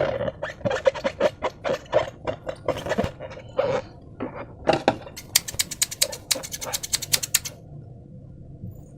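Slime being squeezed and worked by hand: a run of short sticky clicks and crackles, then about five seconds in a quick, even series of sharp clicks lasting about two seconds.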